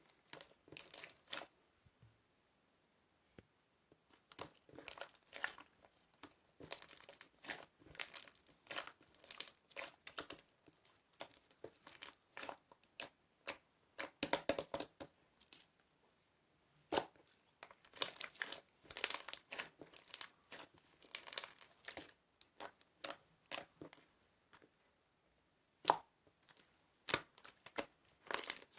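Crinkling and crackling of something being handled, in irregular rapid bursts with a few short pauses.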